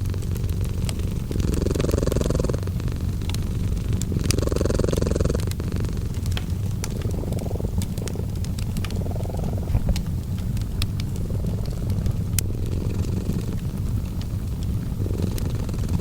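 A cat purring steadily in a slow rising-and-falling rhythm, with each breath cycle lasting about two and a half to three seconds, mixed with the light, scattered snaps of a crackling fireplace.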